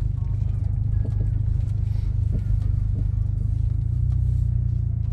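Vehicle engine and road rumble heard from inside the cab, a steady low drone that shifts slightly about four seconds in as the vehicle pulls in.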